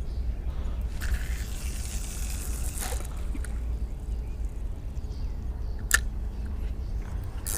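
Fast current of a flooded creek running and trickling past the dock, over a steady low rumble. A hissing swish runs from about one to three seconds in, and there are two sharp clicks, one about six seconds in and one near the end.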